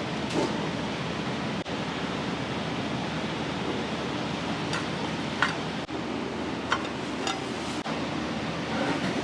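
Steady rushing noise of a busy restaurant kitchen, with a few short, light clinks of kitchenware about halfway through.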